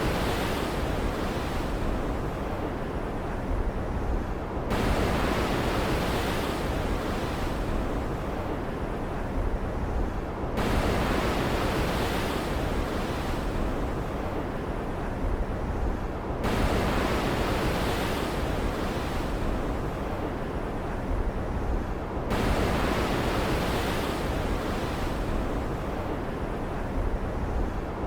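Stormy sea ambience: a steady hiss of surf with waves surging about every six seconds, each swell brightening suddenly and then fading, in an even repeating pattern.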